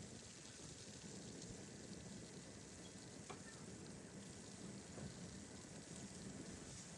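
Steady, faint hiss of wintry precipitation falling in a snowstorm, with scattered light ticks.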